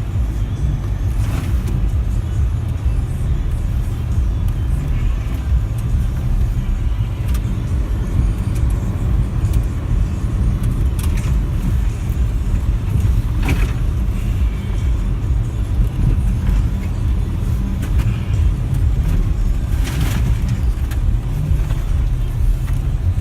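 SUV driving through fresh snow: a steady low rumble of engine and tyres, with a few brief knocks about a second in, around 13 seconds and around 20 seconds.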